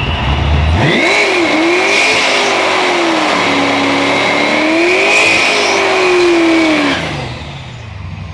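A car engine idling, then launching hard off the drag strip start line about a second in. It accelerates flat out, its pitch climbing and dropping with each gear change, with a steady high whine over the engine note. The sound drops away after about seven seconds as the car runs off down the track.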